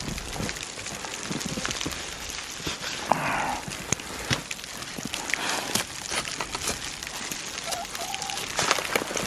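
Steady crackling, rustling noise of a blizzard, with wind-driven snow on the microphone and clothing, scattered with sharp clicks and a brief louder rasp about three seconds in.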